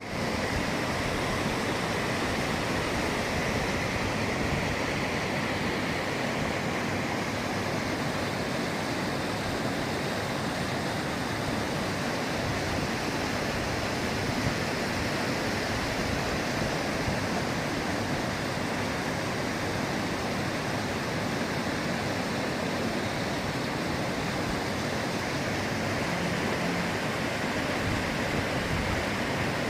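Water rushing steadily down a mountain stream in a gorge, a continuous unbroken noise of flowing and falling water.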